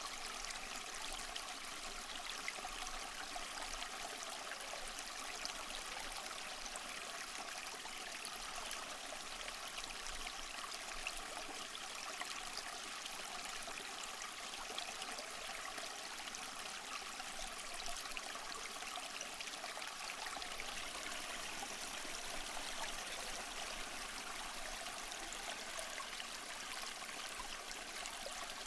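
Small waterfall splashing and trickling over mossy rocks: a steady, even rush of water without pauses, light and mostly high in pitch.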